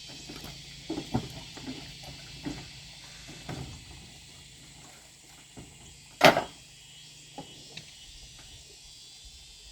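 Scattered light knocks and clatter, with one loud sharp knock about six seconds in, over a steady high insect buzz.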